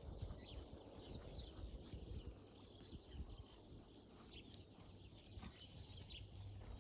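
Faint birdsong: small birds chirping repeatedly over a low outdoor rumble.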